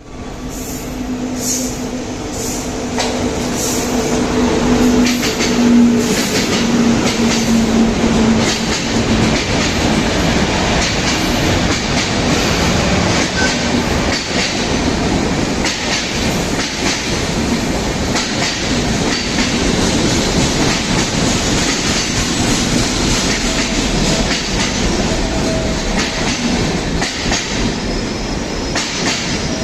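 A train hauled by a WAP-7 electric locomotive passes at speed, a loud, steady rush of running noise with the clatter of wheels over rail joints. The noise builds over the first few seconds and then holds. A steady low tone sounds through the first several seconds and fades out about nine seconds in.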